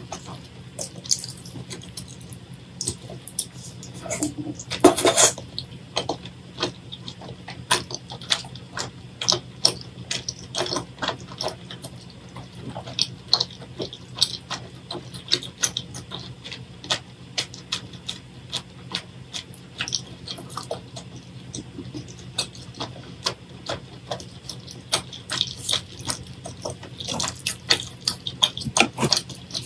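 Close-miked wet chewing and mouth sounds: a rapid, irregular run of sticky clicks and smacks as food is chewed, with a louder, longer wet sound about five seconds in. A steady low hum sits beneath.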